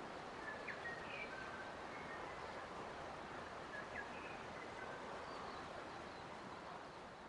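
Forest ambience: a steady outdoor hiss with faint, scattered bird chirps and short whistles, the whole fading down near the end.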